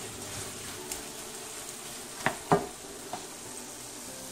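Sliced chicken, bell peppers and onion sizzling in a frying pan while a wooden spoon stirs them, with two short knocks a little after two seconds in.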